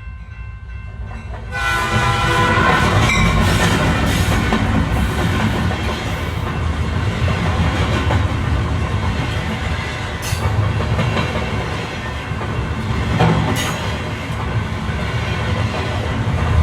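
A train horn sounds for about a second, starting about a second and a half in. The train then runs along the track with a steady low rumble, broken by a few sharp clacks of wheels over rail joints.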